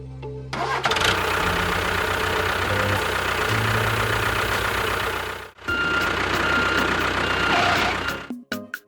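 A vehicle engine running steadily with a low pulsing throb. It cuts out briefly about five and a half seconds in, comes back, and stops near the end.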